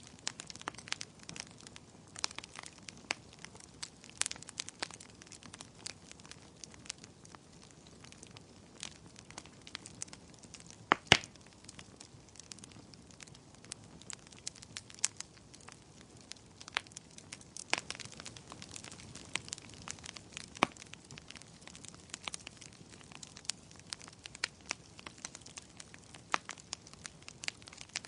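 Wood fire crackling: a low steady hiss with frequent sharp, irregular pops and snaps, one louder pop about eleven seconds in.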